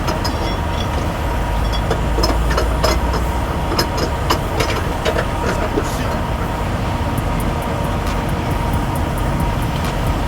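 A heavy vehicle's engine running steadily, with scattered clicks and rattles over it, thickest in the first half, and a steady high hum throughout.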